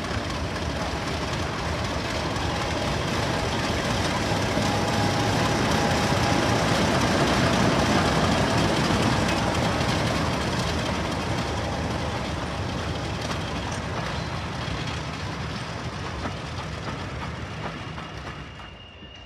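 Diesel-hauled train passing by, its engine and rolling wheels growing louder to a peak about eight seconds in and then fading away. The sound drops off suddenly near the end.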